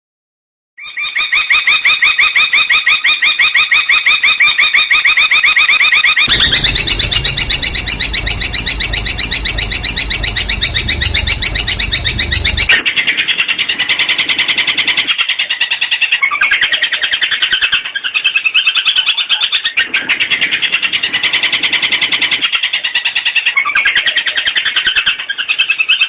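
Long-tailed shrike (cendet) singing loud, rapid runs of repeated notes, the fast 'tembakan' volleys prized in contest birds. The song starts abruptly about a second in and shifts to a different pattern twice, with a low rumble under the middle section.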